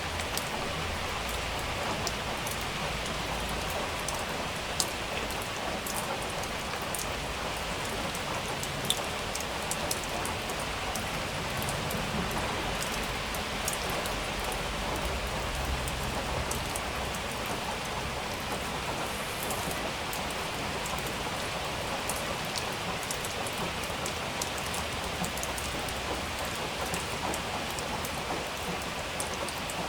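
Steady rain falling, with many individual drops ticking sharply close by; two drops land a little louder, about five and nine seconds in.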